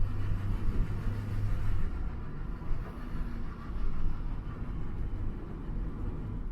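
Vehicle running: a steady low rumble with an even hiss of noise above it.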